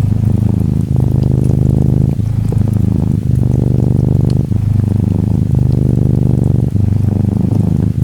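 Norwegian Forest Cat kitten purring close up, a steady buzzing purr that breaks briefly about once a second as it switches between breathing in and out. Faint raindrop ticks fall behind it.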